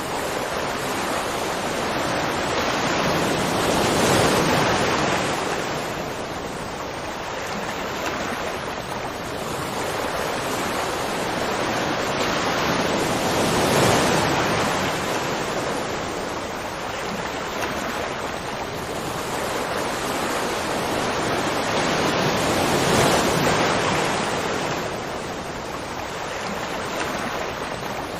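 Rushing water: a dense, steady roar of falling or breaking water that swells and eases in slow surges about every nine to ten seconds.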